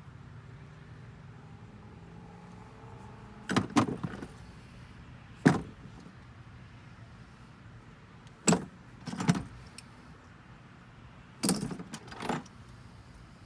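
Short metallic clinks and clatters in several clusters a couple of seconds apart, over a low steady background hum: tools or parts being handled and set down in the engine bay.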